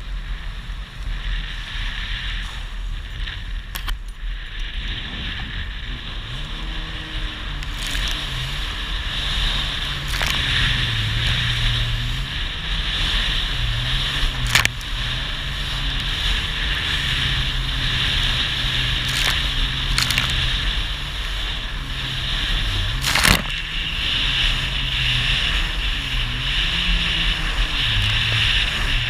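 Jet ski engine running under way, its pitch rising and falling with the throttle, over a steady rush of water and wind. A few sharp knocks are heard, the loudest about 23 seconds in.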